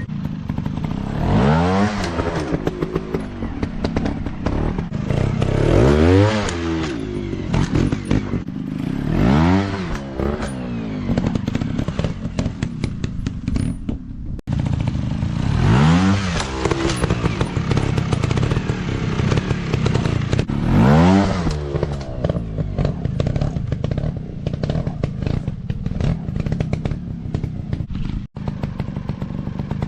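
Dirt bike engines running and revving hard, the pitch climbing and falling about six times as the bikes accelerate and back off, with many sharp clicks and knocks throughout. The sound drops out for an instant twice.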